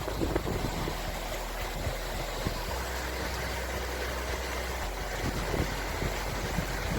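Outdoor ambience: a steady rushing noise over a low rumble, with a few soft thumps near the start and again after about five seconds.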